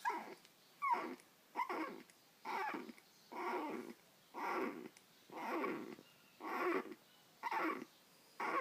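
A dog breathing hard, a loud rasping breath about once a second, now and then with a short whine.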